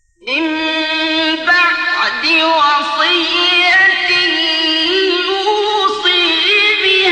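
Melodic Quran recitation in the mujawwad style: a male reciter's voice comes in about a quarter second in and holds long, ornamented, high notes.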